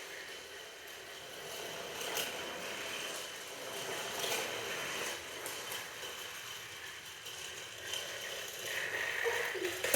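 Motorised toy trains running along a toy track: a steady whirr of small motors with light rattling and occasional clicks.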